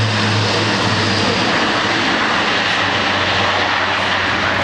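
Airbus A400M's four Europrop TP400-D6 turboprop engines running in flight: a steady rush of engine and propeller noise with a low propeller hum that fades over the first second or two.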